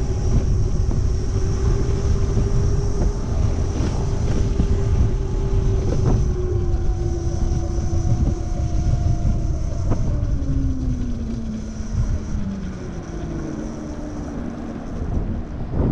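Wind buffeting the microphone on a moving electric moped, under the whine of its electric motor, which falls in pitch as the bike slows, most from about ten seconds in. A few knocks from bumps in the road.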